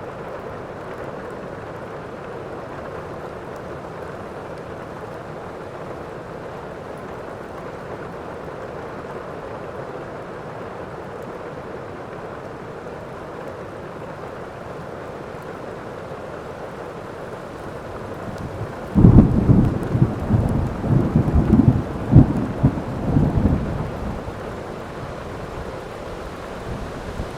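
Steady heavy rain, with a sudden loud clap of thunder about two-thirds of the way in that rolls and rumbles for several seconds before dying back to the rain.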